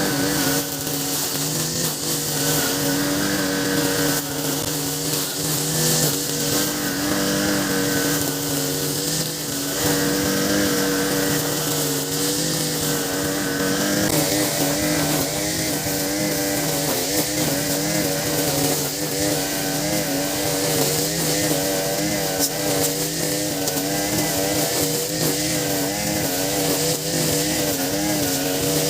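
Nakamura TB33 two-stroke brush cutter running at high revs while cutting grass, its pitch wavering up and down from about halfway through.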